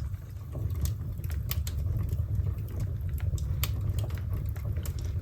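Fire burning in an old wood-burning stove, with scattered sharp crackles over a steady low rumble.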